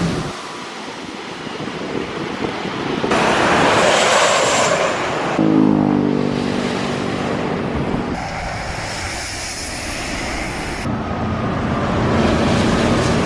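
Jet airliner engines running, mixed with wind on the microphone. The sound changes abruptly several times, and a steady humming tone comes in for a couple of seconds in the middle.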